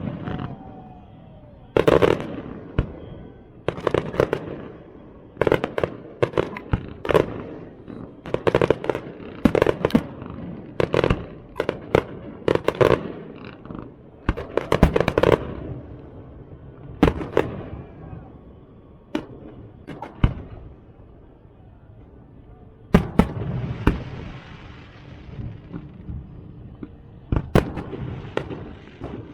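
Fireworks display: sharp bangs and crackling bursts going off in quick clusters, one after another every second or two.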